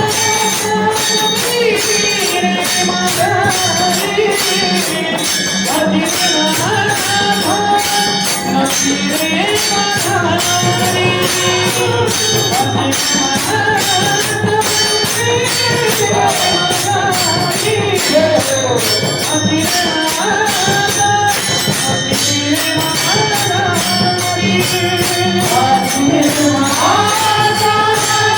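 Marathi devotional singing by a male voice over a steady beat of jingling hand percussion.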